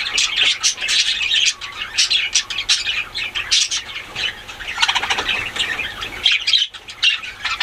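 Budgerigars chattering and squawking continuously, a dense run of quick high chirps with no break.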